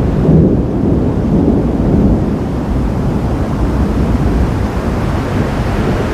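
Thunder rumbling in a long, continuous low roll during a thunderstorm.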